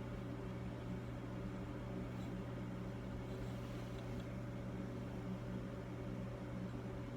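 Steady machine hum, with a few faint light clicks about two and four seconds in.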